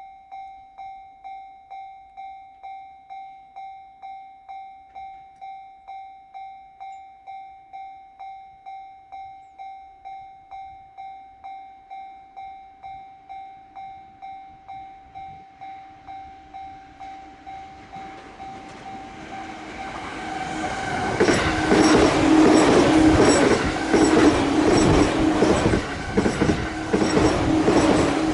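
Japanese level-crossing warning bell ringing about twice a second, then a limited express train approaching and passing at speed. The train builds to a loud rush, its wheels clattering over the rail joints.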